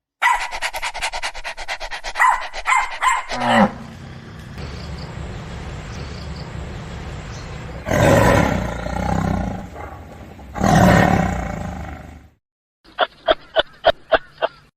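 A run of animal sounds from separate clips: quick chattering clicks, then two loud calls about three seconds apart over steady background noise, then a short burst of rapid clicks near the end.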